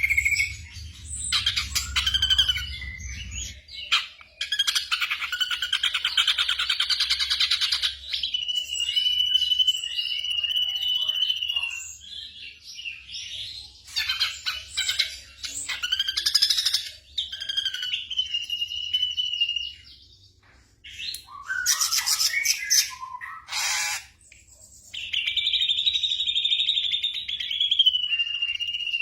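Black drongo song: a varied run of phrases with held level whistles, fast trills and harsh chattering notes, broken by short pauses. A low hum runs under the first few seconds.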